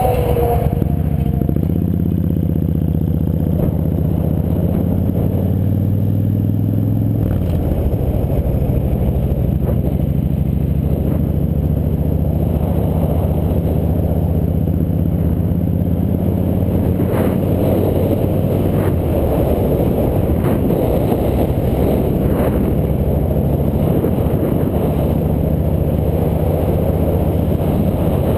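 Motorcycle engine running on the move, its pitch climbing over the first few seconds and dropping about seven seconds in, over a steady rush of wind and road noise.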